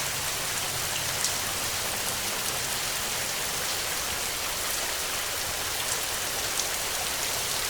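Heavy rain falling steadily, a constant hiss of water with a few sharper drop hits standing out now and then.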